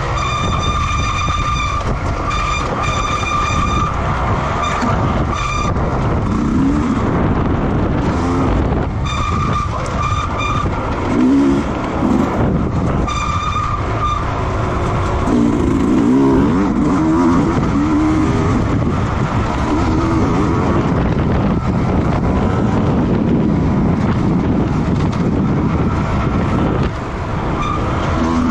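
Motorcycle race engines running continuously at the circuit. A high steady tone sounds in several stretches during the first half.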